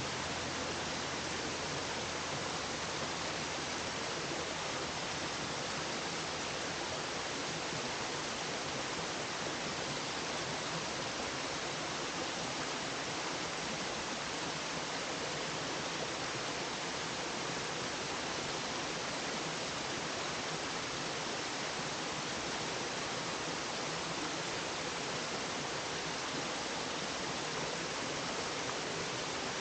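Waterfall on a brook, a steady rush of falling and cascading water.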